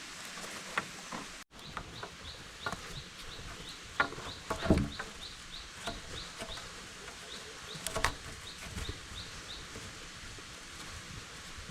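A rapid series of short, high chirps, about three a second, over a steady forest background, with a few sharp knocks scattered through.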